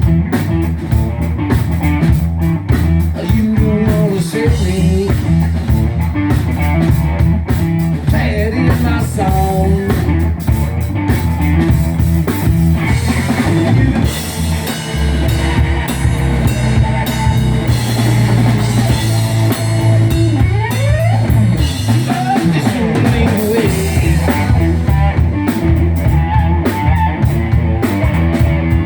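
Live blues-rock band playing, with guitar over bass and drum kit. Rising guitar bends come about twenty seconds in.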